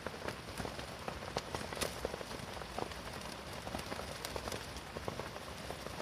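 Rain falling steadily on a military tent, an even hiss with many scattered, irregular drop ticks.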